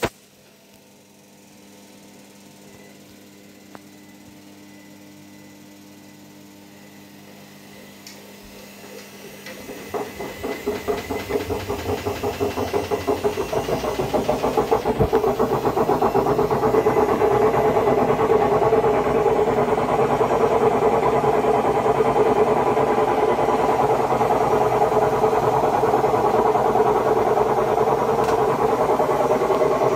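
Haier HW60-10636A washing machine: a click, then a faint hum for about eight seconds, then its drum motor starts and speeds up with a pulsing beat that quickens, settling into a loud steady run about halfway through, the drum spinning up.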